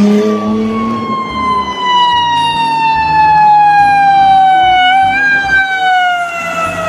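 Toy ambulance siren sounding one long, loud tone that glides slowly down in pitch, with a slight wobble about five seconds in.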